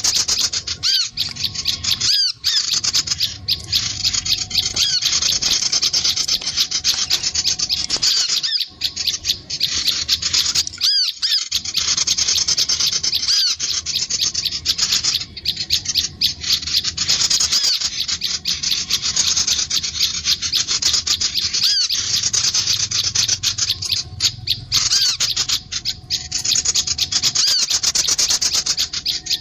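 Recorded calls of sunbirds and prinias, a dense, continuous run of high, rapid chirps and raspy trills with brief breaks every few seconds, the kind of call track played to lure these birds down.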